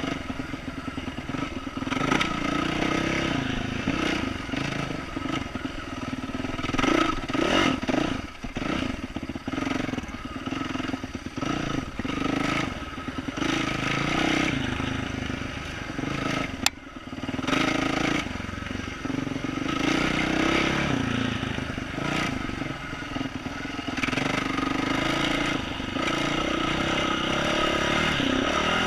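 2012 Yamaha YZ450F dirt bike's single-cylinder four-stroke engine with an aftermarket exhaust, revving up and down while riding a rooty trail, with the clatter of the bike over the roots. A little past halfway there is a single sharp click as the engine briefly drops off.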